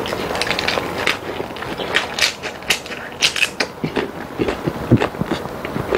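Close-miked chewing of a big mouthful of raw napa cabbage wrapped around spicy boneless chicken feet and makchang: a run of crisp crunches with wet mouth sounds, thickest in the middle.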